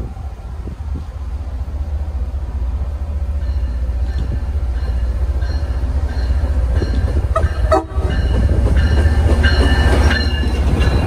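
MBTA commuter rail train with a diesel locomotive approaching and passing close by, its rumble growing steadily louder. The locomotive's horn sounds in several blasts from a few seconds in, louder toward the end.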